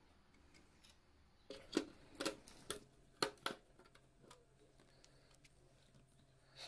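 A quick run of about six light clicks and taps, then a few fainter ones, from hands handling the internal parts and a cable connector of a PlayStation 4 Pro as it is put back together.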